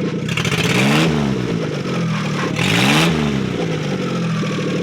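Freshly rebuilt Suzuki F6A three-cylinder engine idling, then revved twice: the pitch climbs and falls back about a second in and again about three seconds in, before it settles to idle.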